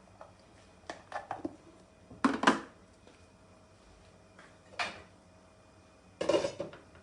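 Kitchen utensils and cookware clattering and knocking: a few light clicks about a second in, louder clatters about two seconds in and again near the end, with a single knock between.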